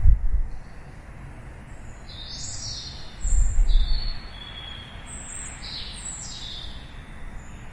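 Songbirds chirping: a series of short, high calls, several sliding downward in pitch, between about two and seven seconds in. Two brief bursts of low rumble, one at the very start and one about three seconds in, are the loudest sounds.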